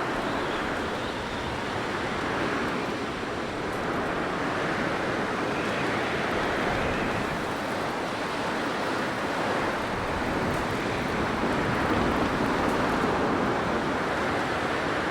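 Blizzard wind blowing steadily: a dense rushing noise that swells and eases slowly.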